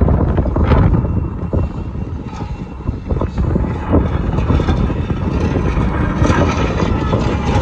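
Strong blizzard wind buffeting the microphone: a loud, irregular rumbling gusting.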